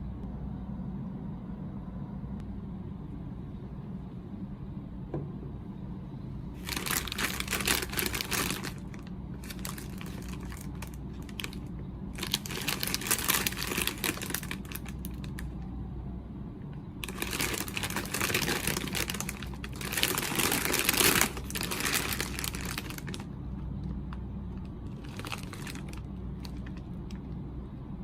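Snack packaging crinkling as it is handled and torn open, in several separate rustling bursts of a second or two each, over a steady low hum.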